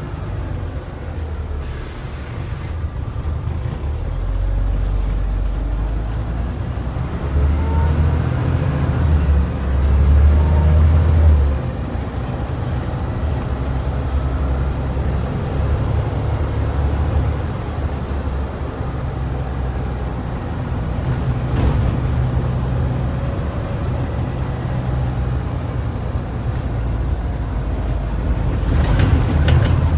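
Scania N94UD double-decker bus's DC09 diesel engine heard from on board, pulling under load and building to a peak about eleven seconds in before dropping off suddenly, then running on steadily. A short hiss of air near the start and again near the end.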